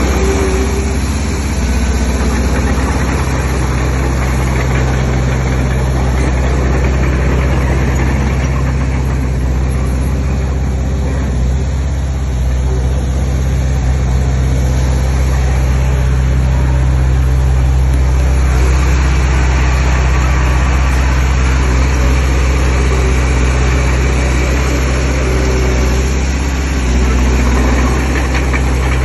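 Diesel engine of a heavy construction machine running steadily, a low drone that barely changes speed.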